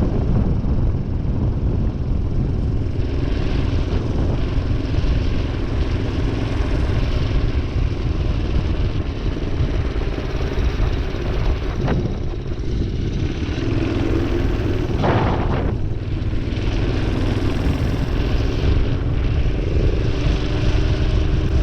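Minibike engine running steadily under way, with heavy wind noise on the microphone.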